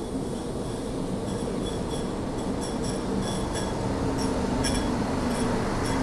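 Sprinter diesel railcar train rolling slowly into the station, its rumble growing steadily louder. A run of short, high-pitched metallic squeaks sounds through the middle, and a low engine hum comes in near the end as the cars draw alongside.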